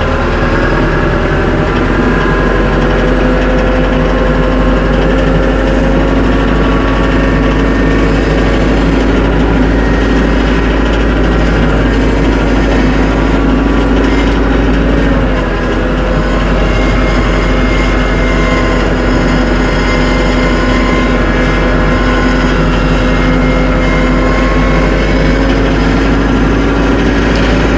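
Tractor engine running steadily, with a brief dip in the engine note about halfway through.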